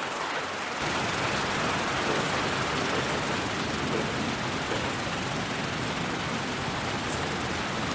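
Steady hiss of white noise, like static. About a second in, a deeper rumble fills in beneath it and it gets slightly louder.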